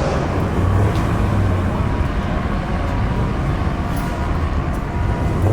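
Car engines running steadily, a low continuous drone with general traffic noise.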